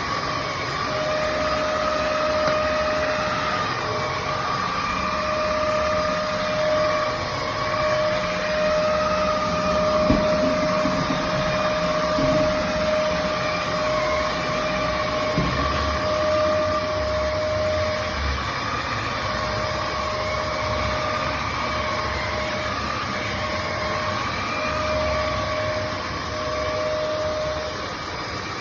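Kärcher vacuum cleaner motor running steadily, with a constant whine over the rush of air.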